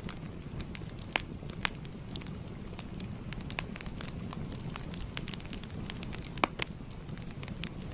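Wood fire crackling: a steady low rumble of burning with irregular sharp pops and snaps, the loudest about a second in and again near six and a half seconds.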